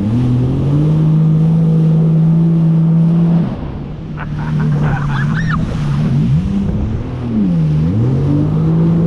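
Jet ski engine running steadily, its pitch dropping and climbing back twice as the throttle is eased off and opened again.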